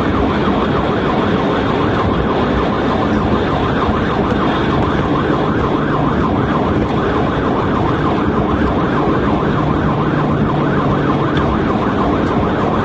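Police cruiser siren in a fast rising-and-falling yelp, heard over the steady engine and road noise of the cruiser at highway speed during a pursuit.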